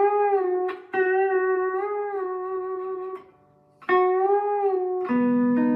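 Lap steel guitar in open G tuning (G B D G B D) playing sustained single notes with a slight waver in pitch from the bar. The same note is picked again about a second in and after a short break near four seconds, then several strings sound together as a chord about five seconds in.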